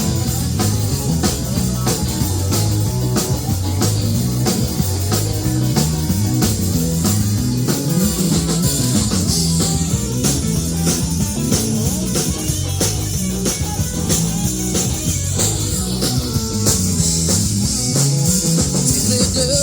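Live band playing an instrumental break with no singing: a drum kit keeping a steady beat under electric guitar.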